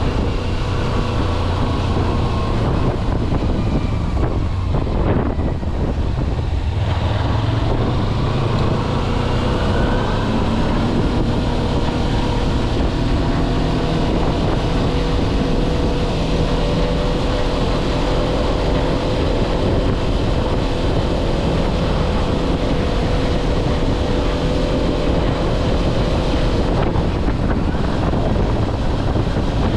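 Kawasaki Versys-X 250's parallel-twin engine running under way, its note shifting with throttle and easing briefly about five seconds in, with wind rushing over the camera microphone.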